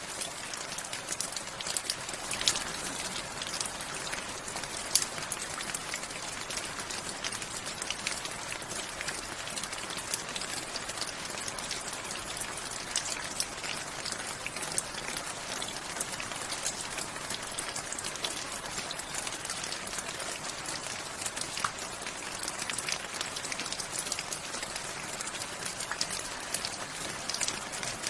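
Steady rain falling, a continuous hiss scattered with many sharp individual drop impacts.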